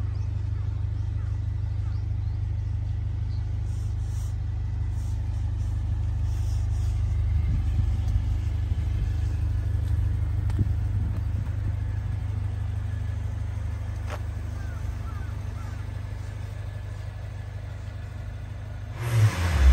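Mitsubishi Pajero Mini's small turbocharged engine idling steadily, a low even rumble.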